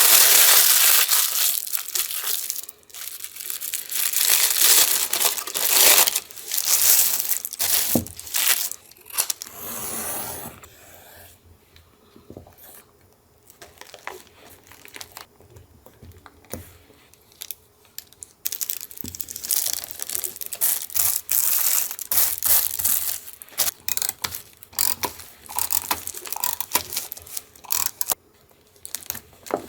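Paper being torn and crinkled by hand, in long noisy stretches at first, then quieter for a while, then a run of short, quick rips and rustles.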